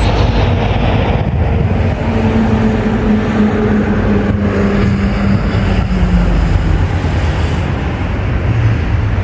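A train passing close: a loud, steady rumble with a motor tone that slowly falls in pitch.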